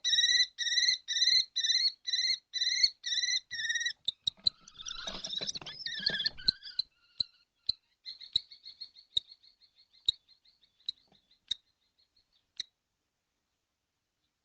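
Kestrels calling: a run of about ten sharp, evenly repeated calls, roughly three a second. About four seconds in comes a rustling scuffle, followed by a softer, fast chittering trill with scattered clicks that fades out.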